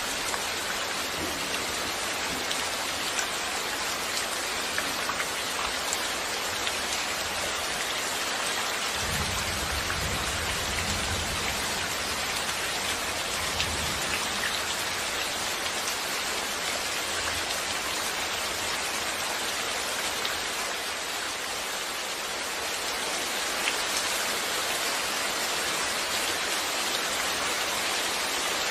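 Steady rain falling, an even hiss with scattered drop ticks. A low rumble sounds under it from about nine to fourteen seconds in.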